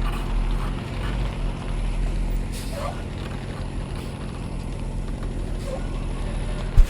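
A vehicle engine running steadily at a low, even pitch, with a single sharp thump near the end.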